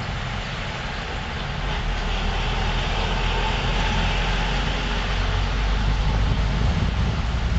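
Steady road noise of a car driving: a low rumble of tyres and engine under a hiss of wind and road. It grows slightly louder over the few seconds.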